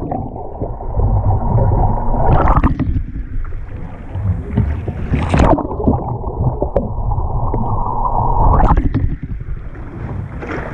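Kayak and paddle working in pool water: three sharp splashes about three seconds apart, with dull, muffled sloshing between them.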